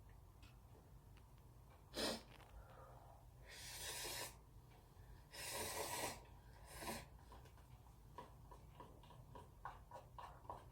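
Close-up eating sounds: a sharp tap about two seconds in, two longer breathy rushes of air a second and a half apart, then a steady run of small wet chewing clicks, several a second.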